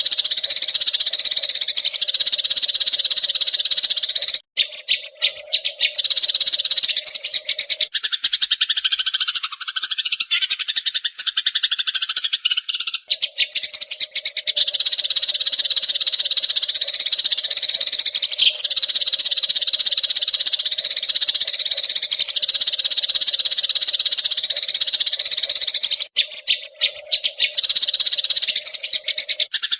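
Eurasian tree sparrows chirping in a dense, unbroken stream of rapid calls. There are short gaps about four seconds in and again near the end, and the calls drop lower in pitch for a few seconds about eight seconds in.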